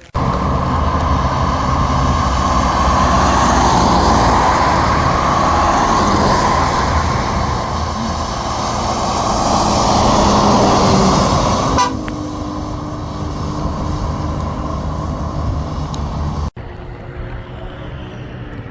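Coach bus diesel engine running steadily, with a loud sustained high tone over it for the first twelve seconds or so. The sound changes abruptly about twelve seconds in and again near the end.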